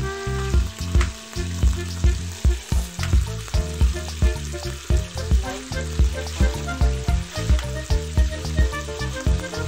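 Chicken pieces sizzling as they fry in oil in a pot, under background music with a steady beat of about three low thumps a second.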